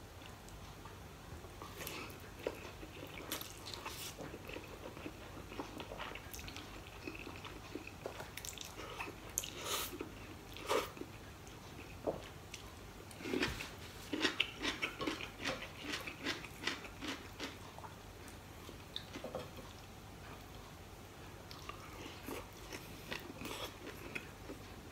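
Close-up eating sounds: a man chewing and biting noodles and roast pork, with a quick run of crunchy bites and mouth clicks in the middle.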